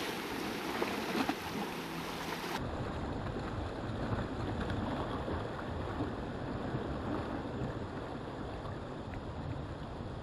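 Sea wash and wind noise at the rocks, an even hiss with no distinct events. About two and a half seconds in it changes abruptly to a duller, lower rumble.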